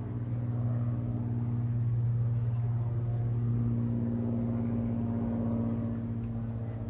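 Piston aero engines of Battle of Britain Memorial Flight warbirds droning steadily as the aircraft fly over, with a deep, even hum that swells slightly partway through.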